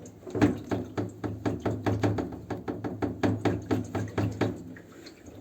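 Washing machine running with a hard, dry knocking, about four knocks a second over a steady motor hum.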